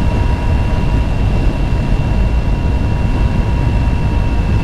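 Motorcycle cruising at a steady speed, heavy wind buffeting on the rider's mic over the engine, with a steady high whine that holds one pitch throughout.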